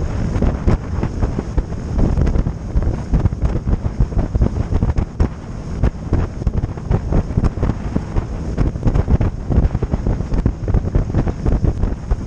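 Wind buffeting the microphone on a moving boat: a steady low rumble broken by many irregular gusty thumps.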